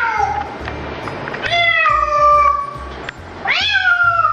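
A cat meowing in long drawn-out meows, three times: one tailing off at the start, a longer one about one and a half seconds in, and another near the end, each sliding down in pitch. Background music with a steady low beat plays underneath.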